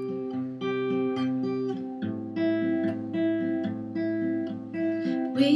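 Acoustic guitar playing a song's intro: notes picked one after another in a repeating pattern, each ringing on under the next.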